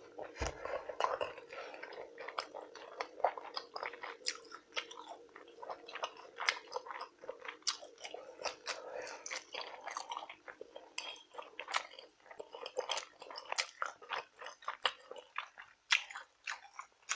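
Close-miked chewing of a big mouthful of rotisserie chicken in sauce, many short irregular mouth clicks.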